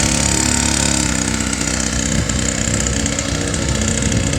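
Small gasoline mini dirt bike engine running steadily at a fairly constant speed.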